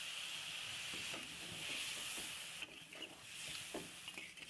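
Chicken gizzards in wet spiced masala sizzling in a karahi while being stirred, with a few soft spoon strokes; the sizzle dips briefly a little past halfway.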